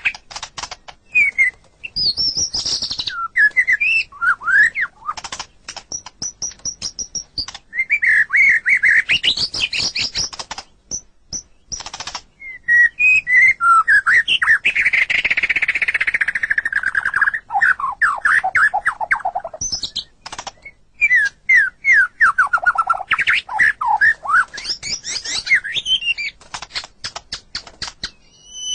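White-rumped shama (murai batu) singing a varied song. Whistled phrases, quick trills and runs of sharp clicking notes come in bursts separated by brief pauses, with a long falling whistle about halfway through.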